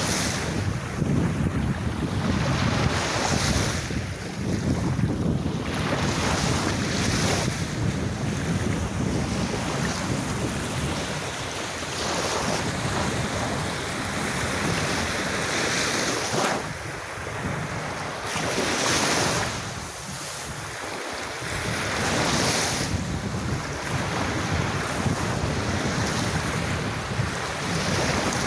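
Sea waves breaking and washing on a beach, the surf rising and falling every few seconds, with wind rumbling on the microphone.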